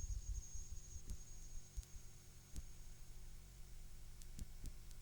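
Faint low electrical hum with a thin high whine that fades out about two seconds in, and occasional short clicks: the background noise of a VHS recording.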